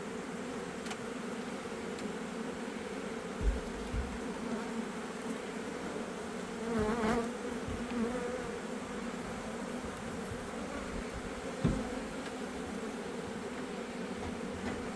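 A dense, steady hum of many honeybees flying around an open hive, with a couple of short low bumps along the way.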